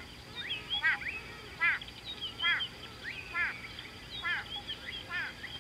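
Birds calling: a quick falling call repeated about once a second, with higher whistled notes between the calls.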